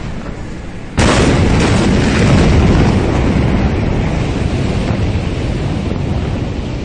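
The Beirut port explosion: a steady rumble, then about a second in a sudden, very loud blast. It holds as a heavy rumble that dies away only slowly over several seconds.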